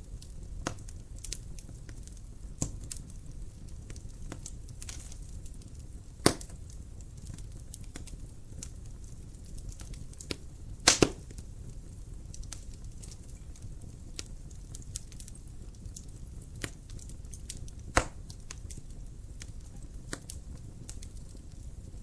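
Wood fire crackling in a fireplace: a steady low rumble of flames with scattered sharp pops, the loudest a quick double pop about halfway through.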